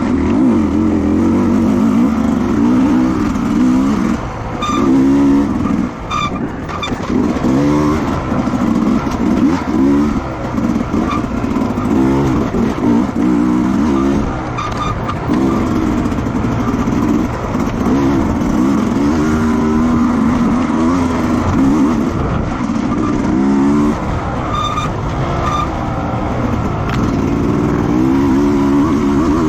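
Racing motorcycle engines at full throttle, their pitch repeatedly rising and falling as the riders run up through the gears and back off.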